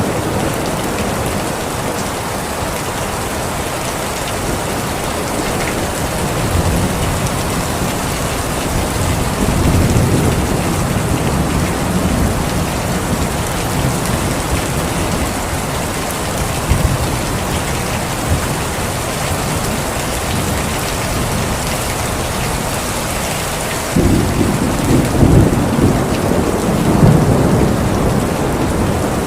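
Steady heavy rain with rolling thunder: low rumbles swell about seven and ten seconds in, and a louder peal of thunder breaks in suddenly near the end.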